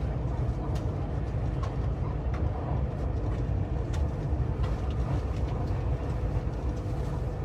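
Steady low rumble of a moving vehicle, with a faint steady hum and a few light clicks.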